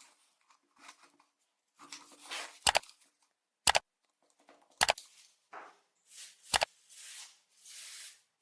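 Hand work on the cast iron parts of a corn sheller: four sharp knocks spaced about a second apart, with short bursts of scraping between them.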